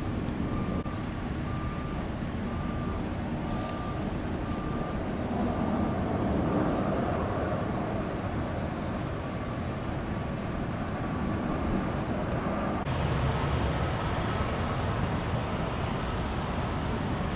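Steady traffic and vehicle noise with a faint, evenly repeating electronic beep like a reversing alarm. About 13 seconds in, the beeping stops and the noise turns brighter and hissier.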